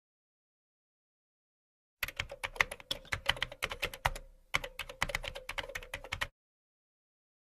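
Fast typing on a computer keyboard: a run of rapid keystroke clicks with a brief pause about halfway through.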